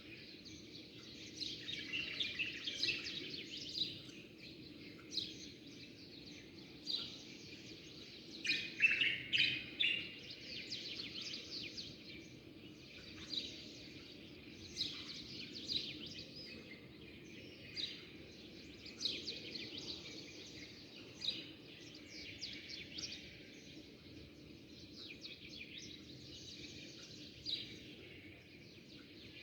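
Small songbirds chirping and twittering in short quick phrases every second or two, with a busier flurry about nine seconds in, over a steady low background hum.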